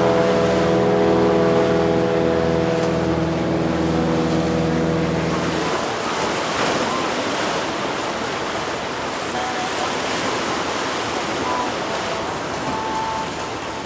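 A passing boat's engines drone steadily, stopping abruptly about six seconds in, leaving the rushing wash of waves and wind.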